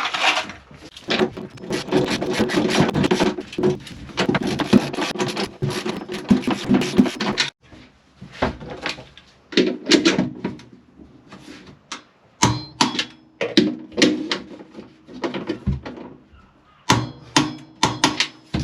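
Hand tools tightening the stainless steel nuts on a jet ski's airbox mounts. A dense run of rapid clicking and scraping lasts about seven seconds and stops suddenly; then come scattered sharp clicks and metallic knocks.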